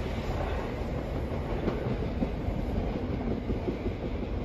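Passenger train rolling over a steel girder railway bridge: a steady rumble of wheels on rail, with a few clacks as the wheels pass rail joints.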